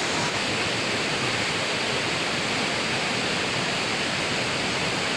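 Steady rushing of fast-flowing river water, an even unbroken roar.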